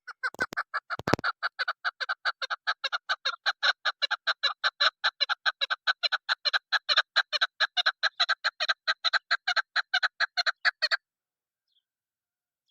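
Female chukar partridge calling in a fast, even run of short clucking notes, about six a second, stopping abruptly near the end; this is the female call used by hunters to lure chukars. Two sharp clicks sound in the first second.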